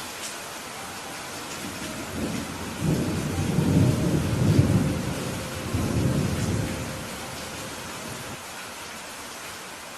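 Steady rain hiss with a low rolling rumble of thunder that builds about two seconds in, is loudest around the middle and dies away by about seven seconds.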